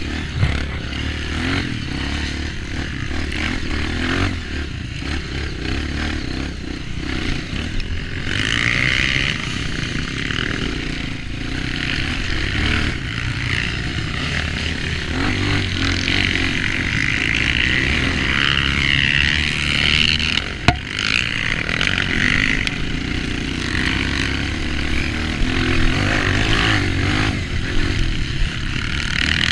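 Honda CRF230 dirt bike's single-cylinder four-stroke engine running steadily on a rough off-road trail, with rattling and scraping from the bike, and one sharp knock about two-thirds of the way through.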